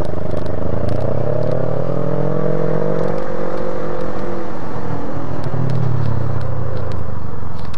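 Motorcycle engine slowing down, its pitch sinking as the rider pulls over, with wind rush and a few light clicks; the engine swells again briefly about two thirds of the way through.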